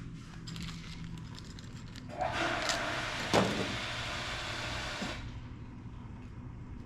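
A burst of pressurised gas hissing for about three seconds, starting about two seconds in, over a steady low hum. This is typical of compressed air or spray being used on carburetor parts.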